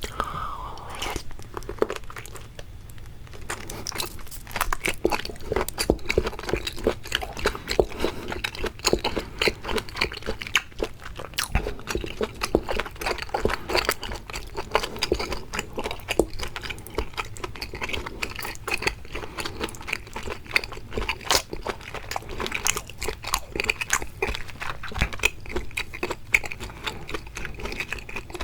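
Close-miked eating sounds of seafood being bitten and chewed: rapid crunching and clicking mouth sounds, quieter for the first few seconds and then continuous.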